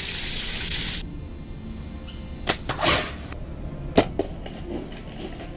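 Bow shots: a sharp bowstring snap with a short whoosh of the arrow a little before halfway, then another sharp snap about four seconds in.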